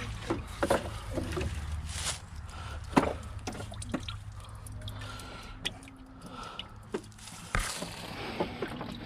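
Irregular clicks and knocks of parts and tools being handled as a van's front end is taken apart, over a low steady hum.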